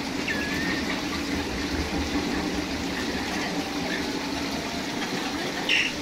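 Steady rushing noise like running water. Over it, a short gliding bird call comes about half a second in, with fainter chirps later and a short harsh burst near the end.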